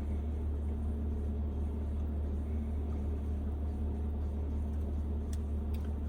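Kei van's engine idling, a steady low hum heard from inside the cabin, with a few faint clicks near the end.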